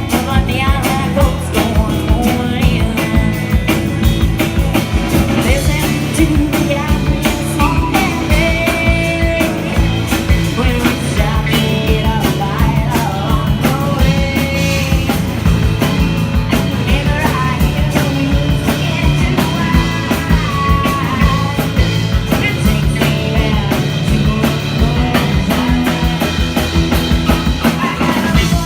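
Live band playing an upbeat country song, with singing, guitar and drums keeping a steady beat.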